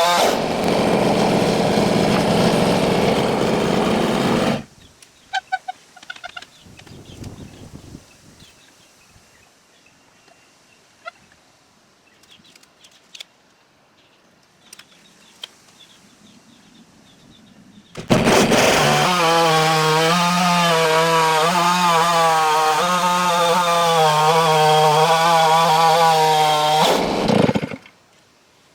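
Stihl MS660 two-stroke chainsaw on a chainsaw mill, running loud and then cutting off suddenly about four and a half seconds in. A quiet stretch with small clicks and taps follows. The saw then runs again at steady high revs for about nine seconds before stopping near the end.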